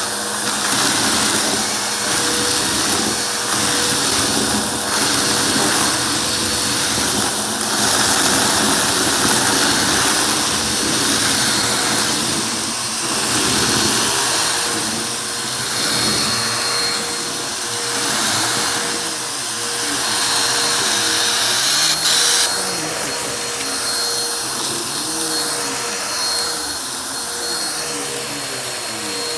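Vacuum cleaner running with a steady motor hum and rush of air, its loudness swelling and dipping every couple of seconds. A short sharp click comes about two-thirds of the way through.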